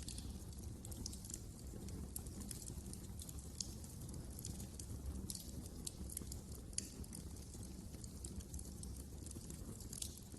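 Wood fire crackling in a fireplace: irregular sharp pops and snaps over a low, steady rush of burning.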